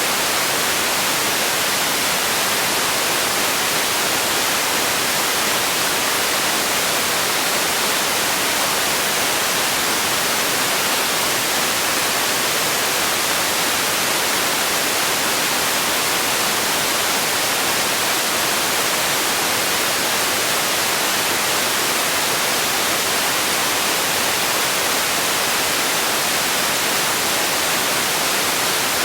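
Steady continuous noise for sleep, an even hiss that is strongest in the high range and thin in the bass, without any change or event.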